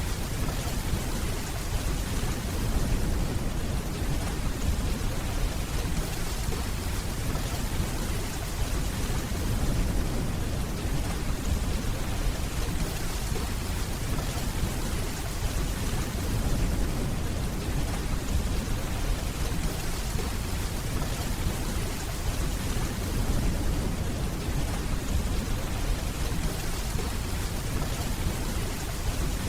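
Steady, dense rainfall with a continuous low rumble of distant thunder underneath, even in level throughout.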